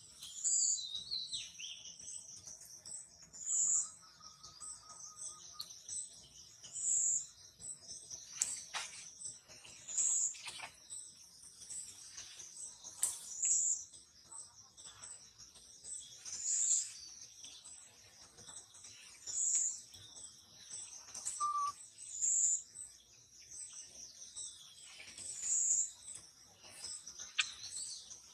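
Bird calling outdoors: a short high chirp repeated about every three seconds over a steady high-pitched drone.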